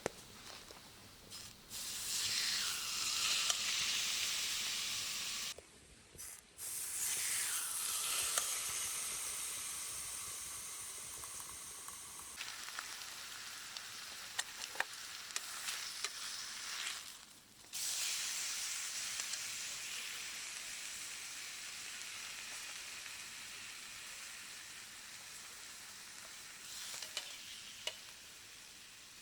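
Steak sizzling in a frying pan over a campfire. The sizzle starts loudly three times and slowly dies down each time, with small pops and crackles.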